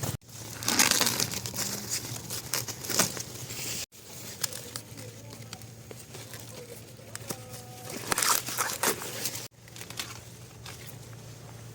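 Rustling and tearing of dry corn leaves and husks as the crop is handled, with scattered sharp clicks, in three short clips cut together.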